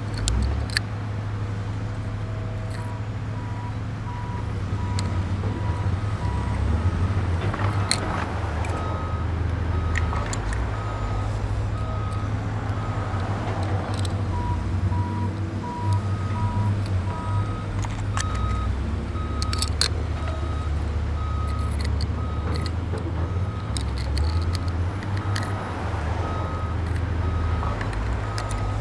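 Low, steady truck engine rumble with a reversing beeper sounding about once a second for long stretches, and a few sharp clicks.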